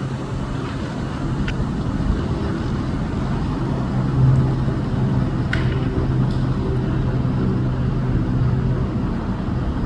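Steady hum of a motor vehicle engine running, with two faint brief high-pitched sounds about a second and a half in and again past the middle.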